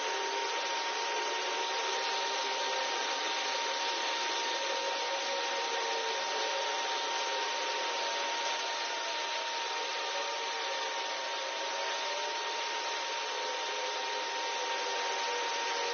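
Pulsed laser cleaning head ablating a railway wheelset: a steady hiss with a constant high whine, unbroken throughout.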